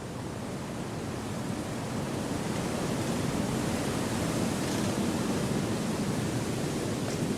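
Wind blowing through forest trees: a steady, even rush that swells gradually over the first few seconds and then holds.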